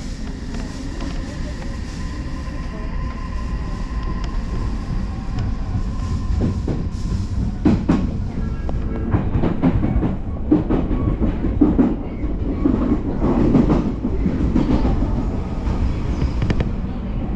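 Odakyu Line electric commuter train running, heard from on board: a steady rumble with a thin steady whine at first that fades out, then from about halfway a louder rumble with repeated clacks and clicks of wheels over rail joints and points.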